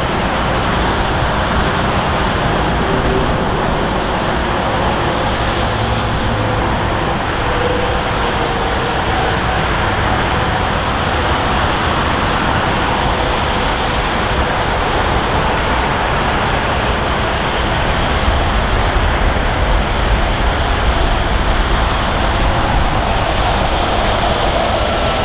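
Jet engines of a Boeing 747-400F freighter: a loud, steady rumble and rush with faint whining tones that drift in pitch, growing a little louder about three quarters of the way through.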